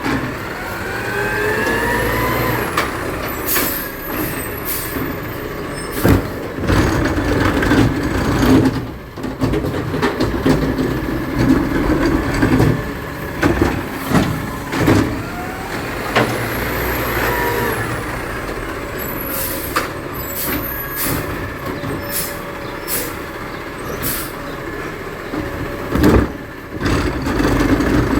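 Garbage truck at work, its engine running with a rising whine twice, about fifteen seconds apart, amid repeated sharp clanks and bangs.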